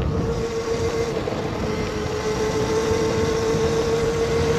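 Modded Razor MX650 electric dirt bike's motor whining at one steady pitch while cruising, over a low rumble of wind noise on the camera.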